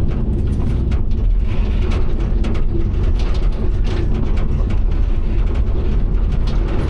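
Large diesel engine running steadily at a constant speed, with brief bits of clatter from the machine.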